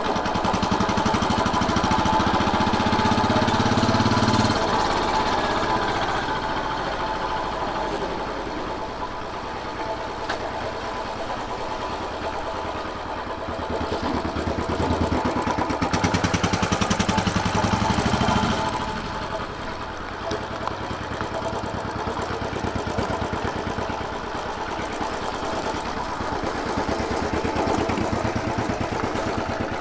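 Royal Enfield Bullet 500's air-cooled single-cylinder engine running, louder and deeper under throttle for the first four seconds or so and again from about 14 to 18 seconds, then easing off each time.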